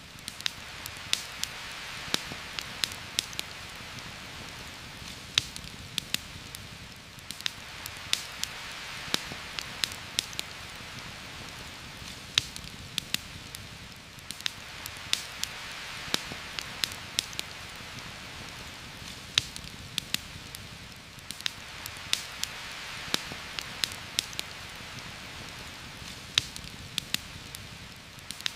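Heavy rain falling steadily on forest leaves, a dense hiss that swells and eases every few seconds. Sharp pops and crackles of a campfire are scattered through it.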